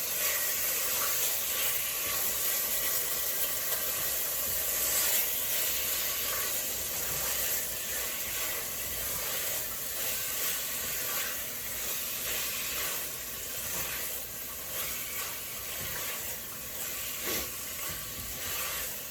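Cubed chicken breast frying in hot oil with chili and red curry paste, a steady sizzle, with light scrapes and taps of a spoon as the chicken is stirred and tossed in the sauce.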